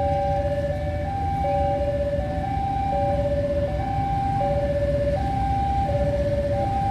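Two-tone hi-lo warning siren, a higher and a lower note alternating about every 0.7 seconds, over a steady low rumble.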